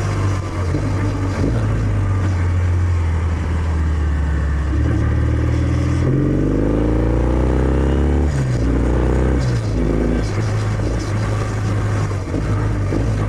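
Kawasaki W650's air-cooled parallel-twin engine running through its stock exhaust while riding. The revs climb about six seconds in, then fall back about two seconds later.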